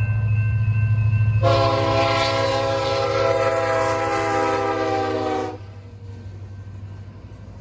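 Diesel locomotive air horn sounding one long chord blast of about four seconds over the low steady drone of a diesel engine; the sound drops away sharply a couple of seconds before the end.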